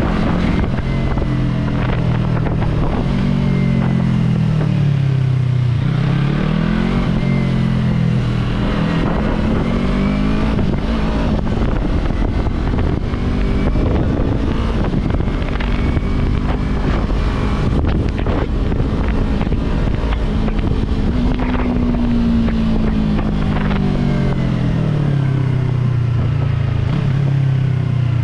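Yamaha R3 motorcycle's parallel-twin engine under way, its revs rising and falling as the rider accelerates and eases off, with a constant rush of wind noise. The pitch drops over a couple of seconds around the fourth to sixth second, climbs again, and falls slowly near the end.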